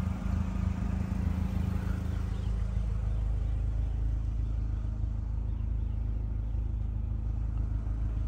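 2011 Mazdaspeed3's turbocharged 2.3-litre four-cylinder idling steadily, a constant low hum.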